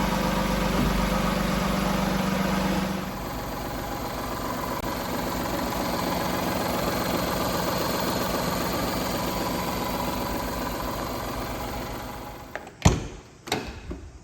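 Daihatsu Hijet kei truck's 660 cc three-cylinder engine idling steadily. About three seconds in, the sound drops a little and changes. Near the end it fades away, followed by two sharp knocks.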